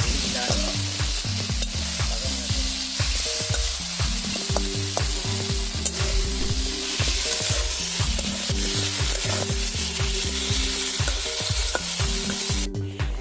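Fish pieces and tomato masala sizzling in hot oil in a black kadai, with a metal spatula stirring and scraping against the pan. The sizzle falls away near the end.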